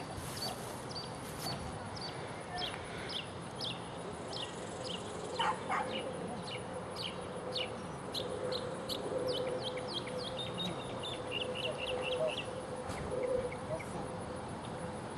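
Birds chirping: short, high calls that fall in pitch, repeating about twice a second, with a quicker run of chirps near the end. A faint steady drone sits underneath.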